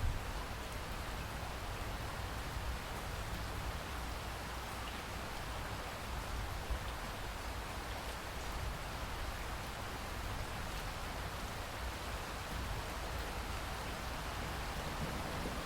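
Steady rain falling as an even hiss.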